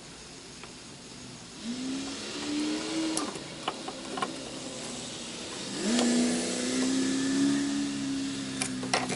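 A small electric motor whines in two runs, rising in pitch as it starts and dropping as it stops, the second run about three seconds long, with a few sharp clicks between and after.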